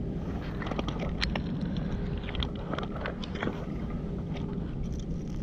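Stones and shingle on a river foreshore crunching and clicking irregularly, over a steady low rumble.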